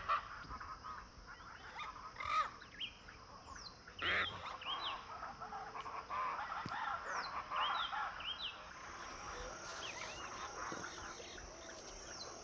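Birds calling: many short chirping calls, with louder harsh squawks about two and four seconds in.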